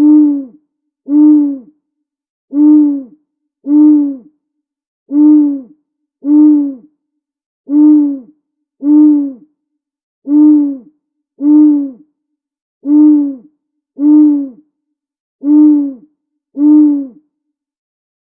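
Owl hooting: fourteen short, identical hoots in evenly spaced pairs, a pair about every two and a half seconds, each hoot dipping slightly in pitch at its end.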